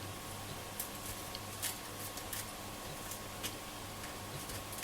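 Faint, scattered clicks and light scrapes as a transistor radio's top panel is eased off its case by hand, over a steady low hum.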